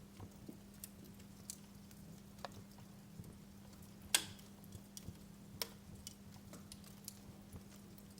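Wood fire crackling in a fireplace: irregular small pops and snaps, with one sharp, louder pop about four seconds in, over a faint steady low hum.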